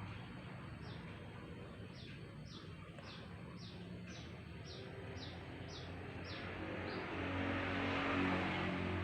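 A bird repeats a short, high, falling chirp about twice a second over a steady low engine hum. Near the end a motor vehicle grows louder.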